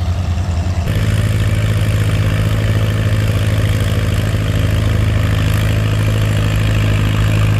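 Antique pulling tractor engine running steadily, growing louder and fuller about a second in, then holding an even throb.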